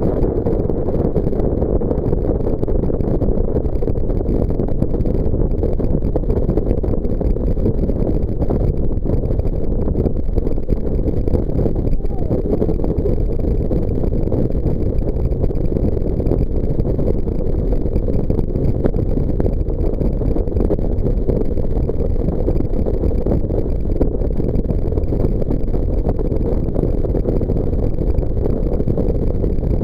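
Jet boat under way: steady engine and water noise with no changes in pitch or level.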